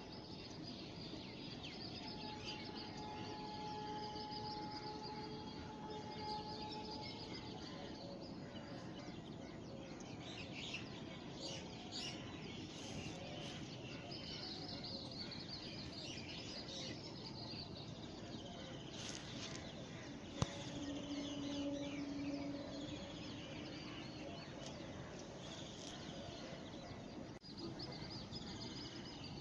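Several birds chirping and calling over steady background noise, with one sharp click about twenty seconds in.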